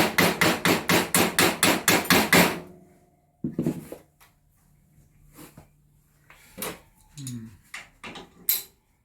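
Hammer blows on a drift, knocking out a stuck rear-suspension fastener. A rapid run of about five strikes a second for the first two and a half seconds, then a single blow about three and a half seconds in that rings on, followed by a few lighter knocks near the end.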